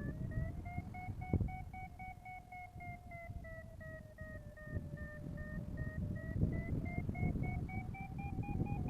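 Flight variometer beeping rapidly in a climb, a steady string of short tones that dips slightly in pitch midway and then rises toward the end as the lift strengthens. Wind noise rumbles underneath.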